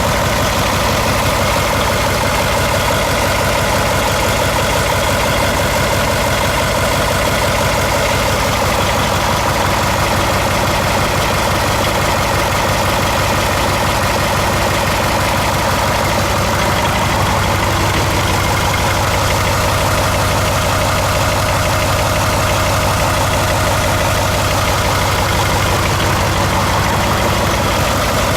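Caterpillar 3208 V8 diesel engine idling steadily.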